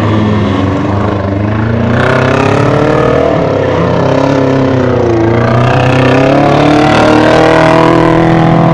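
Several crash-race car engines revving hard at once, loud and continuous, their pitches rising and falling as the cars accelerate and slow around a dirt track.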